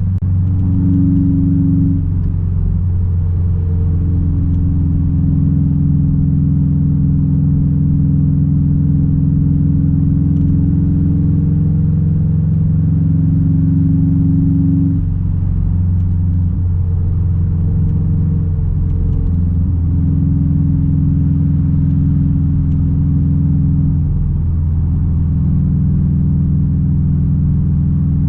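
2006 Subaru WRX STI's turbocharged flat-four running through a straight-piped exhaust while driving, a steady low drone. The level and pitch dip briefly about halfway through, then settle again.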